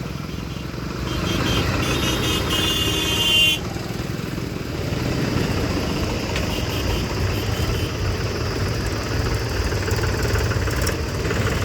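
Diesel tractor engines idling in a traffic jam. A vehicle horn sounds for about two and a half seconds starting about a second in.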